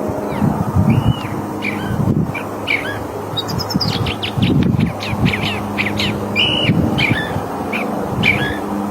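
California thrasher singing a long, varied run of short phrases, mixing clear slurred notes with quick chattering strokes. A low rumble and a steady low hum run underneath.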